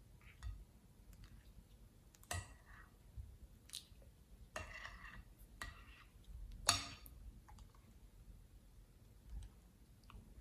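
Slime being handled: scattered soft clicks, wet squishes and small pops, the sharpest one about two thirds of the way in.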